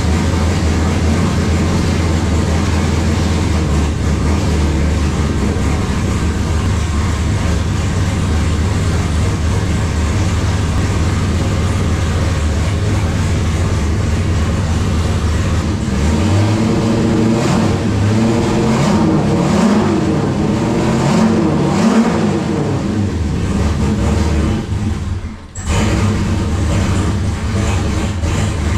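Turbocharged LS V8 in a NASCAR-style race car idling steadily, then revved up and down several times from about sixteen seconds in, with a brief drop near the end. It is a test run to check the engine still runs after the hot-side exhaust flex pipes were refitted.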